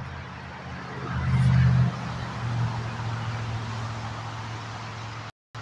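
Diesel locomotive engine running with a steady low hum, swelling louder about a second in and then settling back to a steady note. The audio cuts out briefly near the end.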